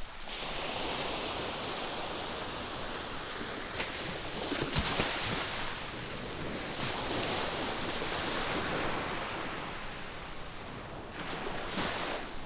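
Ocean waves breaking on a shore: a continuous wash of surf that swells and ebbs, with a sharper splash about five seconds in.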